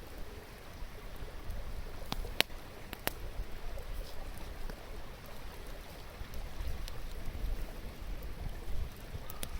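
Wood campfire crackling, with two sharp pops about two and three seconds in and a few fainter snaps, over the steady rush of a flowing stream.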